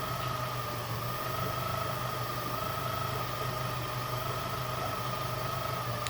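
Yamaha F150 four-stroke outboard running at a steady low speed with a constant high-pitched whirring over the engine hum. The whir comes from the balancer gear, which is not getting enough oil.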